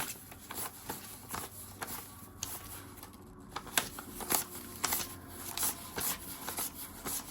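Paper banknotes and envelopes rustling and flicking as cash is counted and sorted by hand, in short irregular bursts.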